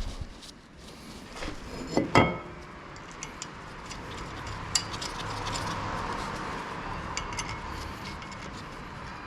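Metal tools and brake parts clinking during work on a car's front brakes. About two seconds in comes one loud, ringing metal clank, followed by small clicks and a soft hiss.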